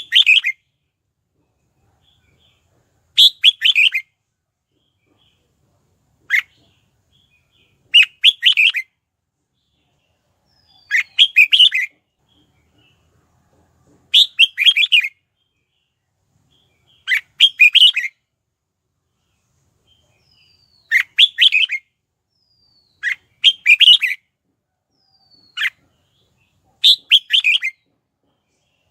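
Red-whiskered bulbul singing: short, quick phrases of clear whistled notes about every three seconds, with a single short note in some of the gaps.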